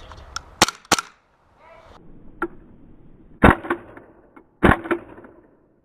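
Several sharp, loud cracks of airsoft pistol shots: two close together near the start, then two more, about a second apart, in the second half.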